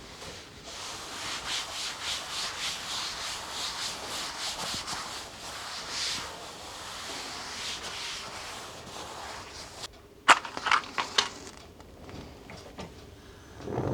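Rhythmic rubbing or scraping strokes, about three a second for around nine seconds, then a few sharp knocks.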